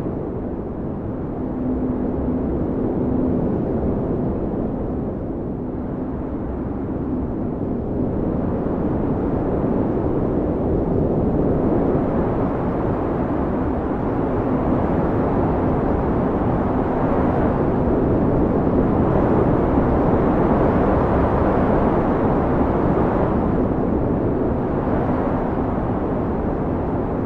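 Blizzard wind blowing hard: a dense, deep rush of wind that swells in gusts and eases off again, loudest about two-thirds of the way through, with a faint low steady howl beneath it.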